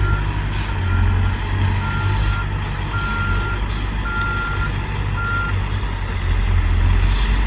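Caterpillar 416 backhoe loader's diesel engine running, with its reverse alarm beeping about once a second as it backs up. The beeping stops about five and a half seconds in while the engine keeps running.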